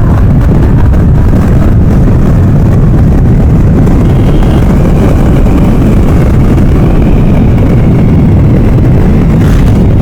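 Heavy wind rumble on the microphone of a moving motorcycle, with the engine running underneath. A faint wavering tone joins about four seconds in.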